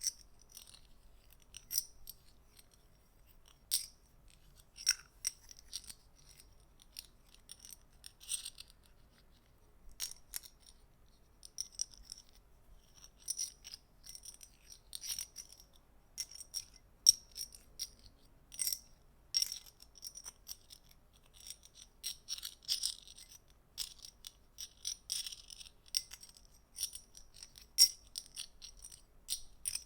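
Small metal objects clicking and tapping against each other in short, sharp, slightly ringing clicks. The clicks come irregularly, sparse at first and growing busier about halfway through.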